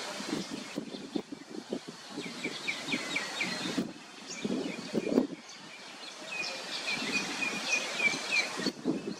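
Birds calling in two quick runs of short repeated chirps, one about a third of the way in and a longer one in the second half, over an uneven low rustling and wind noise on the microphone that peaks about five seconds in.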